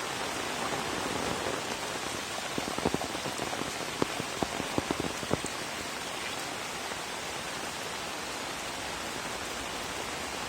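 Steady rain falling, with a handful of louder single drops ticking between about three and five seconds in.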